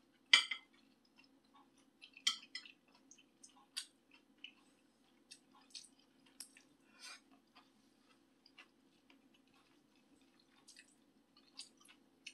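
A person eating tofu and kimchi close to the microphone: irregular wet chewing smacks and small clicks, the loudest about half a second in, over a faint steady low hum.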